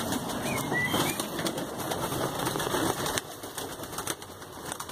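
Pigeons stirring in a loft: wings flapping and feet and feathers rustling with small clicks, busier for the first three seconds, with one short high squeak about half a second in.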